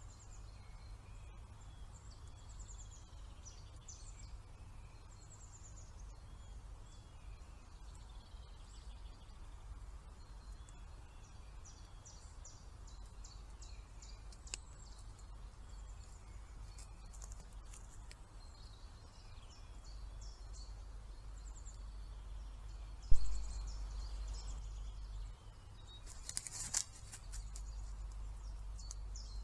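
Small birds singing and calling, many short chirps and trills, over a steady low rumble. A sudden loud thump comes about two-thirds of the way through, followed a few seconds later by a brief crackling burst.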